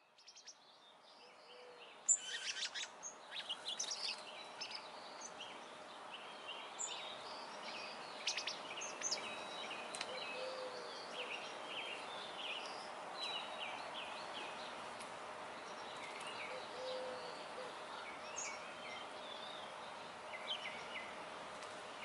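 Small backyard birds chirping and calling repeatedly in short sharp notes, thickest in the first half, over a steady outdoor hiss with a faint steady low hum.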